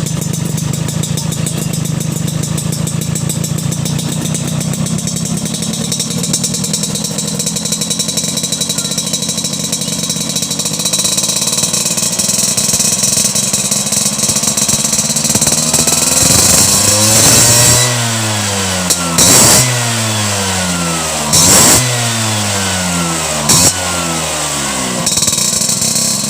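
Motorcycle with an R27 type S aftermarket exhaust (right-side outlet) idling steadily. About ten seconds in the revs climb slowly. Then come three or four sharp throttle blips, each falling back toward idle.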